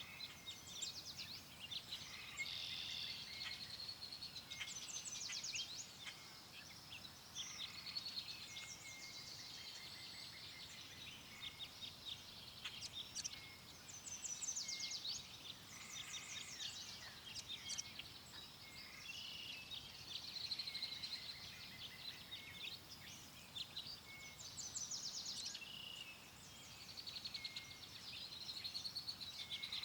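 Several songbirds chirping and trilling in overlapping bursts, over a faint low hiss.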